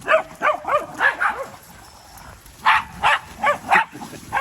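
A dog barking in two quick runs of short, sharp barks, about five in each.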